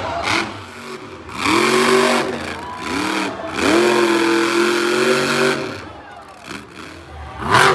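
Monster truck engine revving hard in several rising and falling bursts, held high for about two seconds in the middle before easing off. A sudden loud burst comes near the end.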